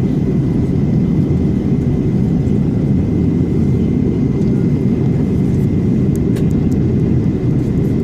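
Steady drone of an Airbus A330-300 airliner's engines and airflow heard from inside the passenger cabin, with a faint steady high tone above it.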